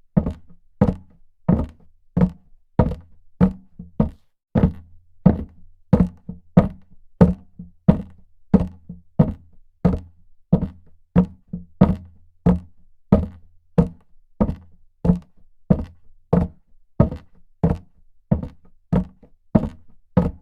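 Footsteps of a person walking on a hard floor at a steady pace, about three steps every two seconds.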